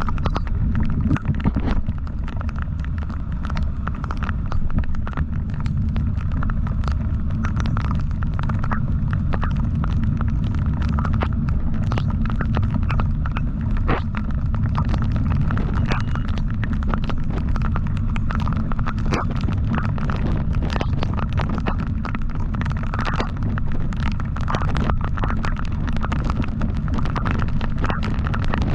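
Motorcycle riding at speed, heard as a steady low rumble of engine and heavy wind buffeting on the microphone, with scattered short pops.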